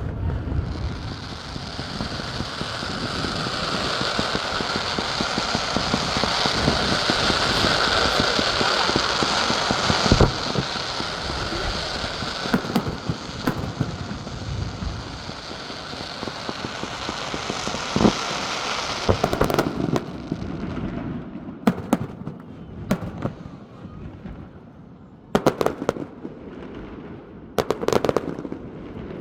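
Fireworks going off: a dense, continuous crackling of many shells that builds for about twenty seconds, with louder bangs about ten and eighteen seconds in. It then thins out to a few separate sharp bangs.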